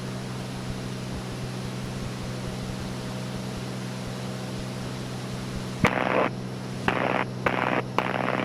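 Steady drone of a Cessna 206's engine and propeller in cruise, heard in the cockpit. Near the end, several short crackling bursts begin, each opening with a click.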